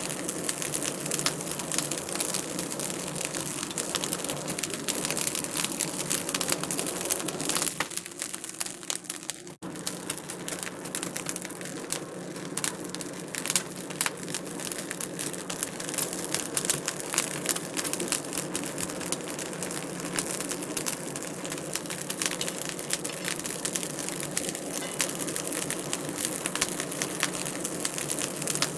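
Wood fire crackling in a fireplace: a steady hiss full of small, rapid pops and snaps. The sound dips away briefly about nine seconds in, then comes back.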